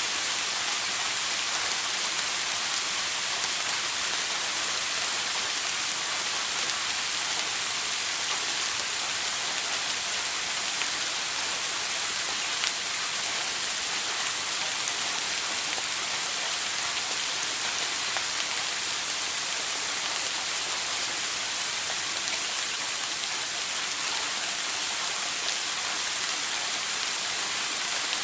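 Steady shower spray: running water pattering down in an even, unbroken hiss.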